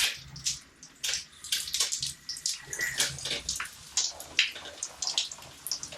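Water splashing and dripping in irregular spatters as newly plumbed pipes are tested with the water turned on.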